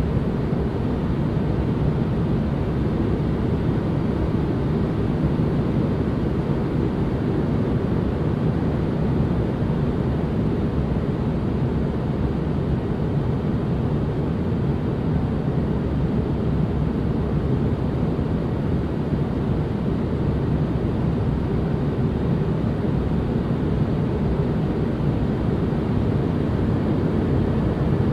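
Steady, unchanging relaxation noise ambience, deep and rumbling rather than hissy: most of its weight sits in the low end, with little high-frequency hiss.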